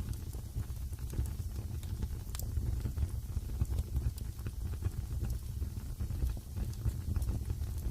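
Wood fire burning in a fireplace, with a steady low rumble and irregular crackles and pops, one sharper pop about two and a half seconds in.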